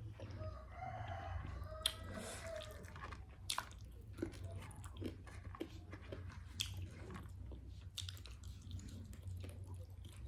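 Close-up chewing and biting with small crunches and wet mouth clicks. A rooster crows once, drawn out, during the first three seconds.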